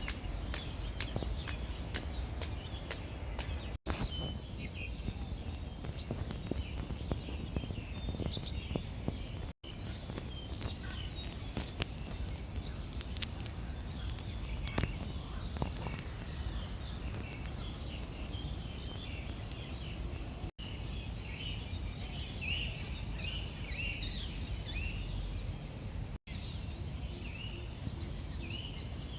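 Birds chirping in many short, high calls over a steady low background rumble, the chirping busiest in the second half.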